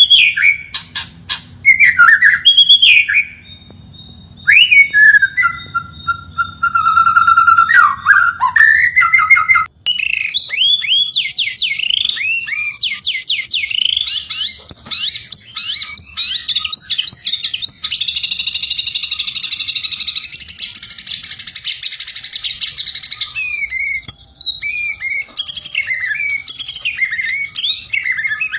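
White-rumped shama (murai batu) singing a loud, continuous, varied song. It opens with sweeping whistled phrases and a few sharp clicks, then after a short break runs into long, fast strings of rapid repeated notes and trills.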